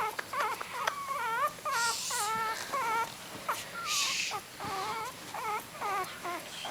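Several three-week-old miniature dachshund puppies crying in many short, overlapping, wavering squeals and whimpers, as puppies do when taken away from their mother.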